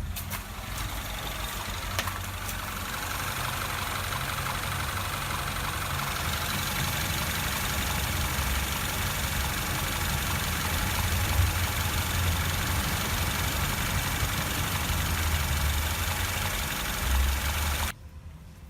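Car engine idling steadily with a low, uneven rumble, cut off suddenly near the end.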